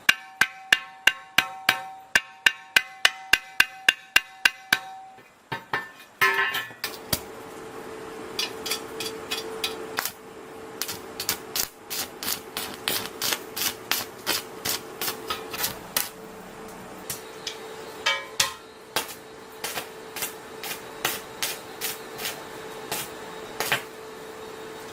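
A hammer striking steel in a fast, even run of about three or four ringing blows a second, which stops about five seconds in. After that comes a steady hum with irregular, quicker metal taps and knocks over it.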